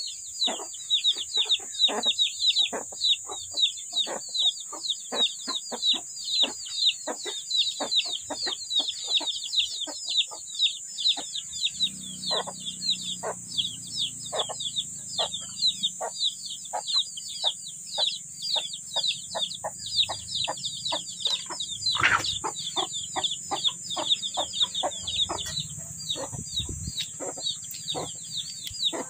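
A bird chirping rapidly and repeatedly, short high notes sliding downward about three to four times a second without pause, over a steady high-pitched drone.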